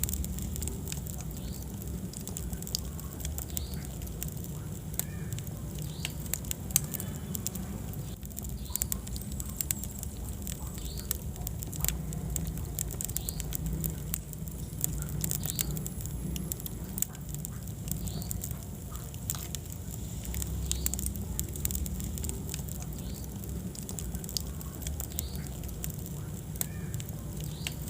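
Wood fire burning in a fireplace: a steady low rumble with frequent small sharp crackles and pops throughout.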